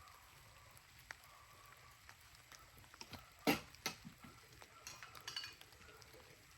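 Scattered light clicks and knocks of things being handled, with a loud knock about three and a half seconds in, a second soon after, and a short clattering rattle near five seconds.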